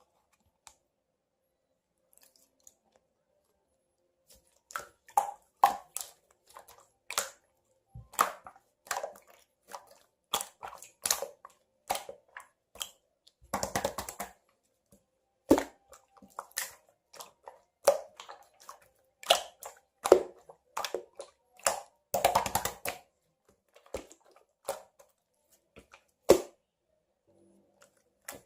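Clear slime being squeezed, stretched and pressed by hand, giving irregular sticky pops, clicks and squelches that start about four seconds in. Twice, once near the middle and once later on, it breaks into a quick run of crackling.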